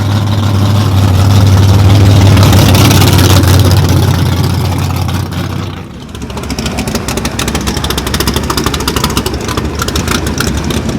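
Race car engine held at steady high revs for about six seconds, then suddenly dropping back to a rapid, pulsing idle.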